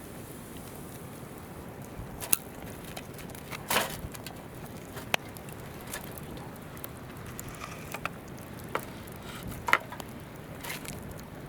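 Wood campfire crackling, with a sharp pop every second or two, over the steady rush of a flowing river.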